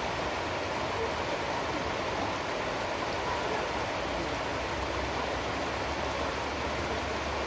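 Rain falling steadily, an even hiss of water with no single drops standing out.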